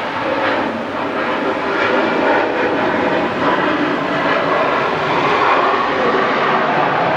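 Jet airliner engines making a loud, steady rushing noise that grows slightly louder over the first couple of seconds.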